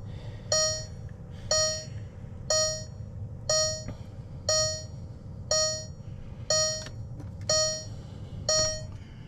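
A VW TDI Beetle's dashboard warning chime, sounding evenly about once a second while the ignition is on and the glow plugs preheat before a cold start.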